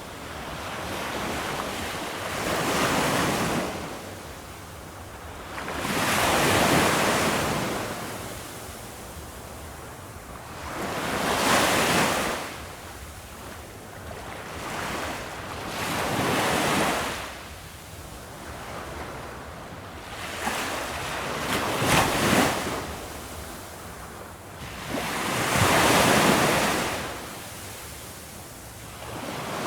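Ocean surf breaking on a beach: waves rush in and wash back in surges about every four to five seconds, with a sharper crackling crash a little past the middle.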